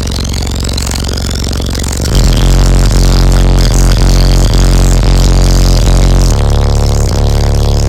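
Music played very loud through two Rockford Fosgate 19-inch subwoofers, heard inside the truck's cab. About two seconds in, deep held bass notes come in much louder, and the bass note shifts about six seconds in.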